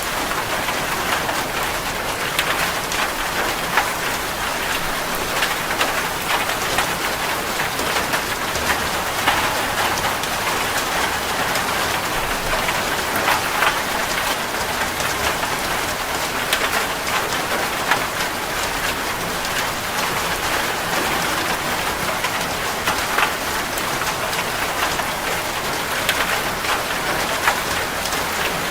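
Steady rain falling, a constant hiss dotted with many small drop clicks.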